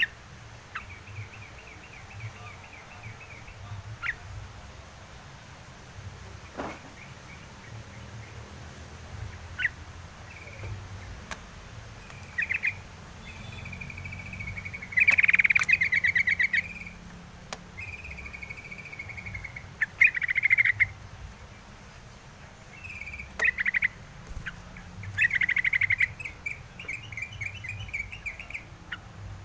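A wild bulbul (crucukan) singing: short phrases of quickly repeated, trilled notes, given again and again with pauses between. The loudest phrases come about halfway through and again near the end.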